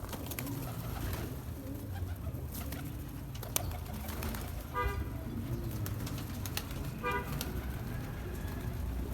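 Domestic pigeons cooing low and steadily, with a few sharp clicks, and two short tooting sounds about two seconds apart in the middle.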